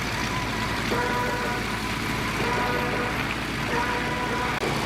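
Steady drone of small propeller-driven aircraft engines, with faint voices in the background.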